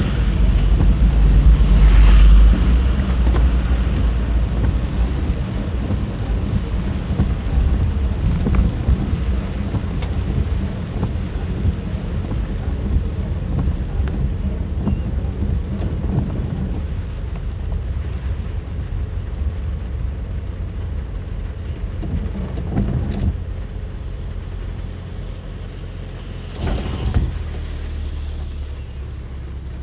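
Thunder rumbling long and low, loudest in the first few seconds and slowly dying away over the rest, with steady rain and road noise from a car driving through a thunderstorm. There is a brief whoosh near the end.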